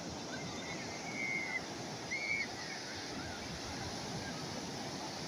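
Steady wash of calm sea waves. Two short high calls rise out of it about a second in and again about two seconds in.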